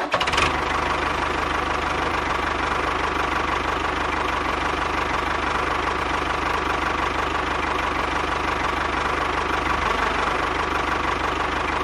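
A small engine running steadily at an even speed, with a fast, regular knocking beat.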